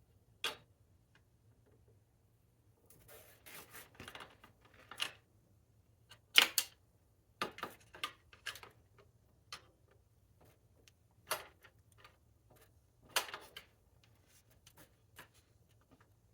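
Irregular clicks and clatter of tools and metal parts being handled during bike assembly, with one louder knock about six seconds in.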